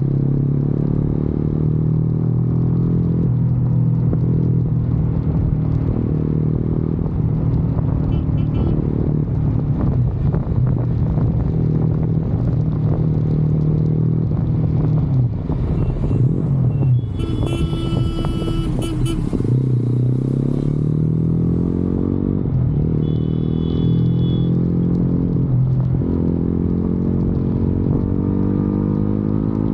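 Motorcycle engine running under way, holding a steady pitch, dropping off about halfway, then climbing again twice as the rider accelerates. A separate high steady tone, like a horn, sounds for about two seconds just past the middle.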